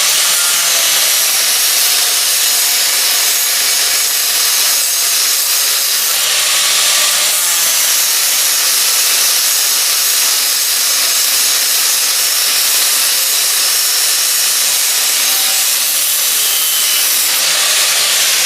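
Power tool cutting through a rusted steel U-bolt on an old truck's rear axle, running steadily and loudly, mostly high-pitched, without a break.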